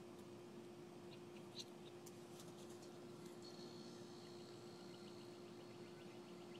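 Near silence: room tone with a faint steady hum and a few faint ticks about two seconds in.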